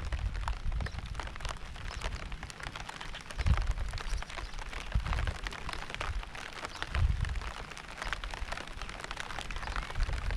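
Steady rain with many individual drops pattering close by, broken by several brief low rumbles, the strongest about three and a half and seven seconds in.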